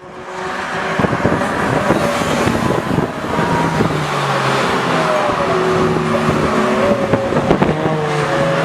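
Nissan GT-R with a Milltek Sport exhaust running: a steady engine and exhaust note that wavers slightly in pitch, over a constant rush of noise.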